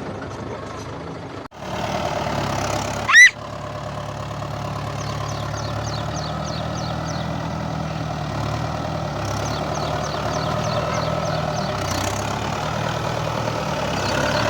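Tractor engine running steadily at low revs. About three seconds in there is a short, very loud rising squeal.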